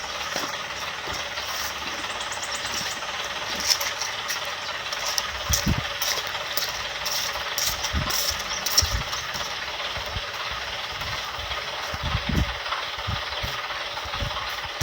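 A vehicle engine running steadily, with rattling and a few low thumps scattered through.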